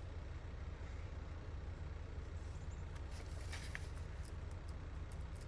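Steady low background hum, with a brief faint rustle and a few light clicks a little past halfway, as paper is handled while making a journal pocket.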